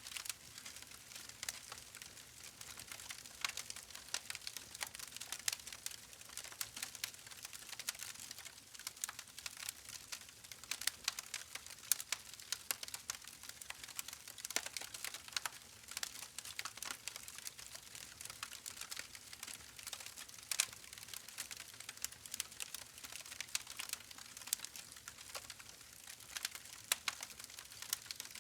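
Campfire burning: a steady hiss with dense, irregular crackling and popping of wood.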